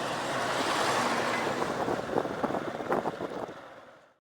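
Wind rushing over the microphone with road noise from a motorbike riding a dirt road. It fades out towards the end.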